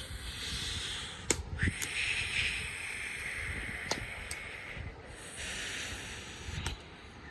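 Wood bonfire burning, with a hiss that swells and fades and four or five sharp crackling pops.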